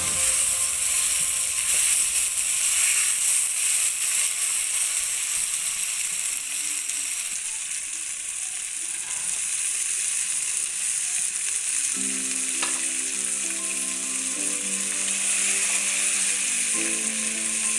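Cauliflower florets and onion-spice masala sizzling steadily as they fry in oil in a pan, stirred with a spatula.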